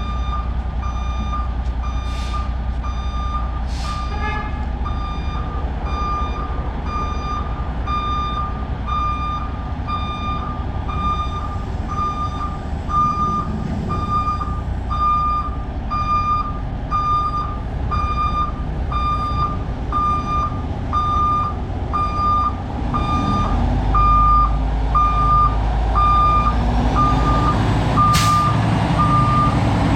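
Heavy equipment's reversing alarm beeping steadily in an even rhythm over a diesel engine running, with a few sharp clicks or knocks.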